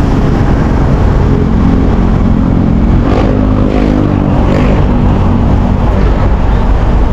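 Motor vehicle engine running close by: a steady loud rumble with a low hum that swells around the middle.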